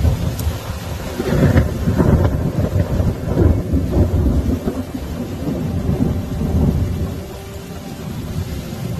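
Thunder rumbling through heavy rain. The low rumble swells about a second in and eases toward the end.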